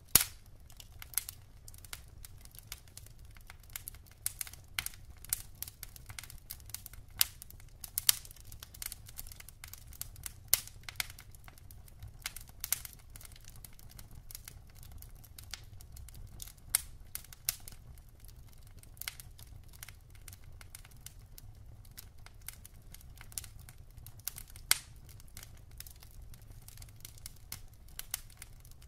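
Wood fire in a fireplace crackling: irregular sharp pops and snaps of burning logs, a few louder ones scattered through, over a low steady rumble of the flames.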